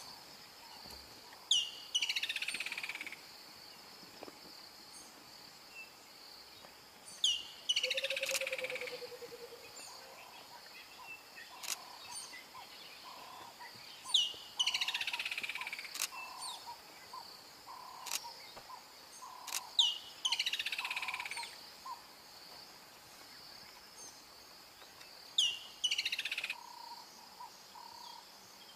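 A bird calling five times, about every six seconds: a sharp high note followed by a falling run of notes lasting about a second. A steady high insect drone runs underneath.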